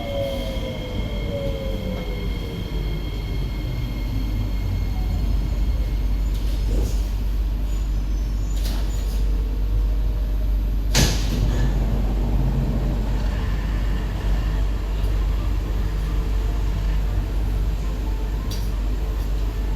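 On board an SMRT C151B train in motion: steady low rumble of the car running on the track. The traction motor whine falls in pitch in the first few seconds, and there is a single sharp knock about eleven seconds in.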